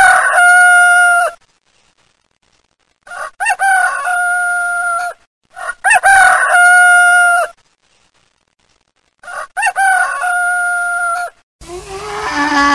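A rooster crowing over and over, four crows about three seconds apart, each a few short notes running into a long held note. Near the end a different, lower call begins.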